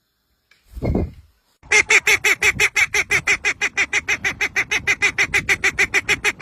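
A short low sound about a second in, then a bird giving a fast, even series of loud, harsh honking calls, about eight a second.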